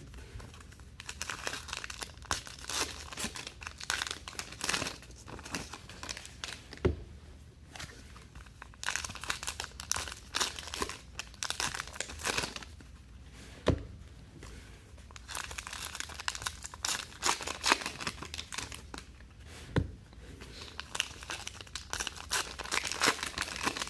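Trading-card pack wrappers being torn open and crinkled, in stretches of a few seconds, with three short low knocks in the pauses.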